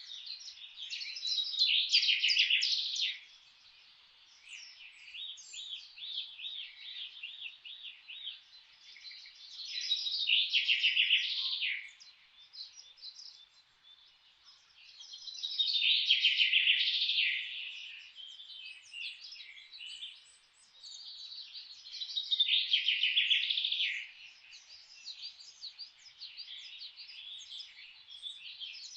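A songbird singing in the forest. It repeats a loud, fast trilling phrase of 2 to 3 seconds about every six seconds, with softer chirps between the phrases.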